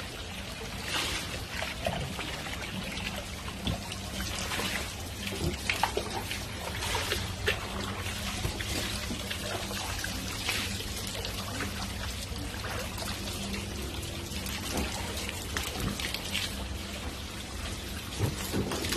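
Water pouring and trickling steadily, with small irregular splashes, over a steady low hum.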